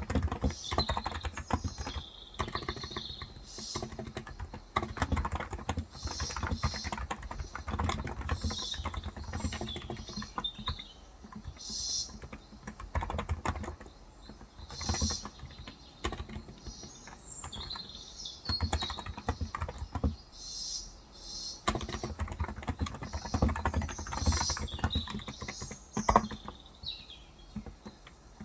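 Typing in bursts of a few seconds on a Cox Endeavour electrocapacitive (contactless) 35 g tenkeyless keyboard, the keys clattering rapidly with short pauses between runs. Birds chirp now and then in the background.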